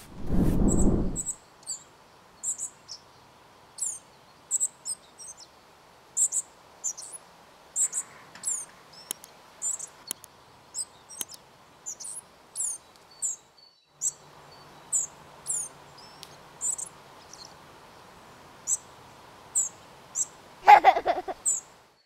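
Spotted flycatcher calling: thin, very high, short call notes repeated roughly every half second to a second. A brief burst of low noise opens it, and a short, louder pitched sound comes near the end.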